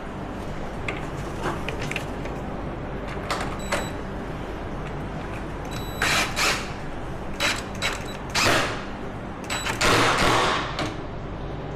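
Hand tools and metal parts being handled on a quad during bolt work: scattered light clicks, a couple with a short metallic ring, then several louder scraping, rustling sounds of about half a second to a second each in the second half.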